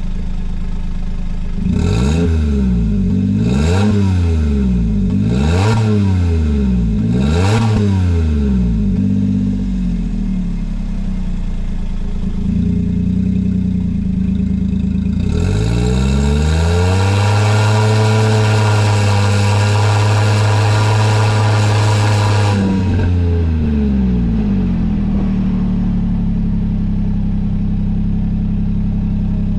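Daihatsu Hijet kei truck's 658 cc three-cylinder engine, heard through a Rosso Modello COLBASSO aftermarket muffler. It idles, is blipped four times in quick succession about two seconds apart, then settles back to idle. About halfway through, the revs are raised and held high for several seconds before dropping back to idle.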